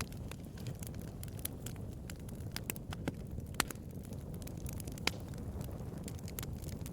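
Bonfire crackling: irregular sharp pops and snaps over a steady low rumble of burning wood, with two louder pops about three and a half and five seconds in.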